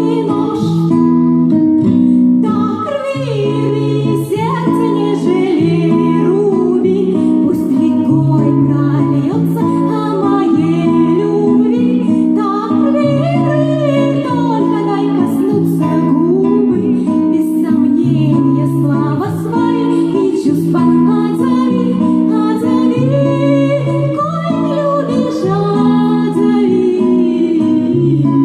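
A song: a voice singing over guitar, with a steady run of low notes changing about once a second.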